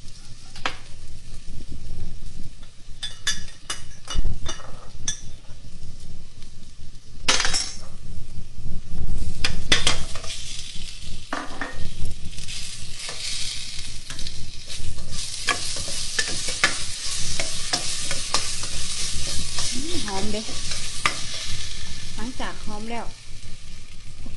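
Curry paste frying in hot oil in a stainless steel pot, sizzling while a metal ladle scrapes and knocks against the pot as it is stirred. The sizzle grows denser from about halfway through.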